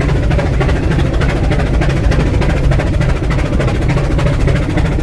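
Rack steam locomotive working hard on a mountain climb: a rapid, steady beat of exhaust puffs over a heavy low rumble and clatter.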